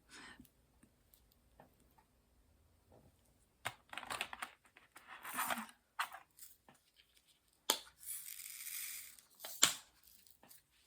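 Faint handling sounds from working a diamond painting: scattered light clicks and taps, with short plastic crinkles and a longer rustle about eight seconds in.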